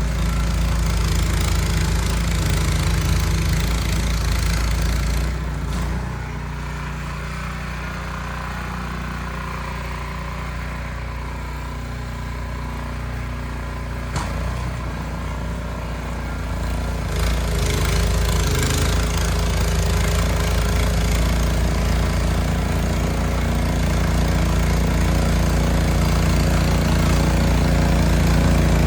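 Ariens Platinum SHO 24-inch two-stage snow blower engine running steadily. Its sound drops off about five seconds in and comes back louder about twelve seconds later.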